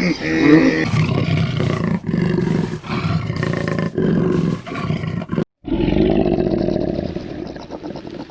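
Big cat roaring: a run of loud, low calls, broken by a sudden cut about five and a half seconds in, after which a second roar starts and trails off near the end.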